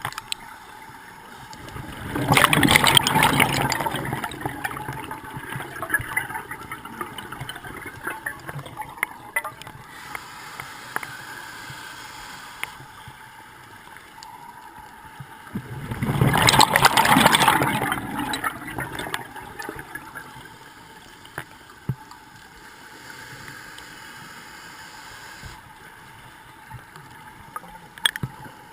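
Scuba diver's exhaled bubbles rushing out of the regulator twice, each burst lasting about two and a half seconds, roughly fourteen seconds apart. Between the exhalations there is a quieter hiss with scattered faint crackles.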